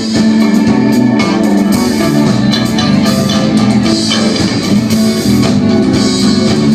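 A live band playing a song, with electric guitar and a drum kit.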